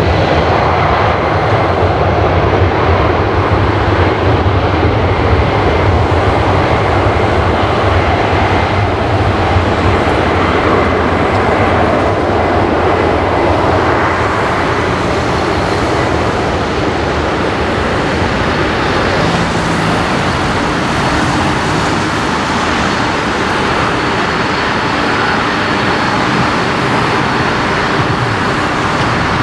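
Jet engines of a Boeing 747-400 running loud and steady, with a thin high whine over the rumble, easing slightly over the second half.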